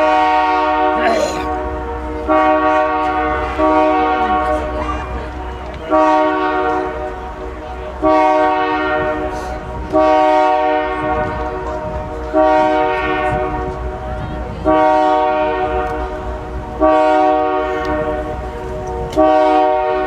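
Locomotive bell ringing over and over, about one strike every two seconds, each stroke fading slowly, as the train departs. A steady low rumble from the idling diesel locomotive runs underneath.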